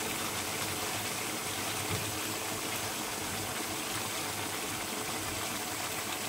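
Chicken pieces sizzling steadily in hot oil in a frying pan as they are seared.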